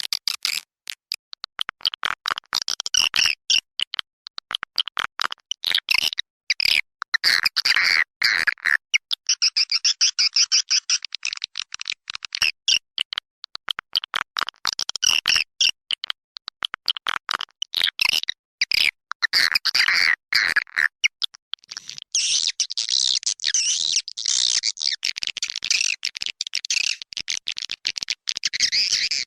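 Edible-nest swiftlets calling in a rapid stream of clicks and chattering twitters: a recorded lure call (suara panggil) played to draw swiftlets into a nesting house. From about 22 seconds in it turns into a denser, continuous high twittering.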